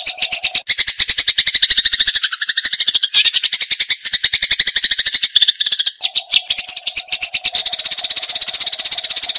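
Eurasian tree sparrows giving fast, unbroken chattering chirps, about ten a second: the excited calls of sparrows fighting.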